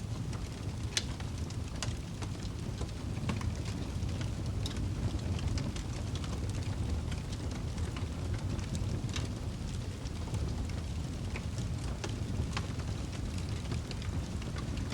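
Wood fire burning in a fireplace: a steady low rushing sound with frequent, irregular sharp crackles and pops of burning wood.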